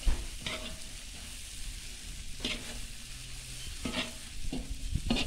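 Julienned carrots and meat sizzling in hot oil in a cast-iron kazan, while a metal slotted skimmer scrapes and turns them against the pot several times. This is the brief carrot-frying stage of plov.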